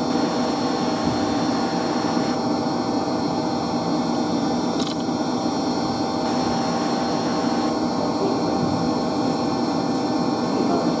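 Steady machine-room hum of running electric circulation pumps and motors: an even noise with several steady tones held throughout, and a brief high click about five seconds in.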